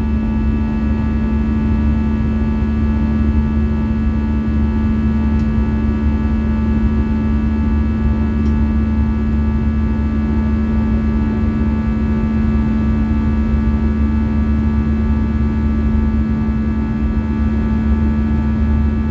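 Steady cabin noise inside an Airbus A320-214 with its CFM56 engines running: a low rumble under a steady hum and a set of fixed whining engine tones, with a faint pulsing tone higher up.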